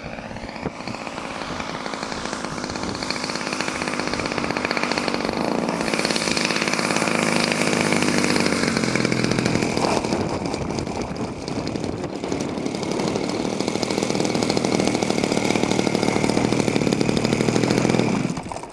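A small motor running steadily, building up over the first few seconds, easing off a little midway, then cutting off sharply near the end.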